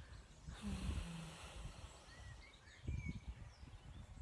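Wind buffeting the phone's microphone, with small birds chirping in the background and a brief rushing noise about half a second in.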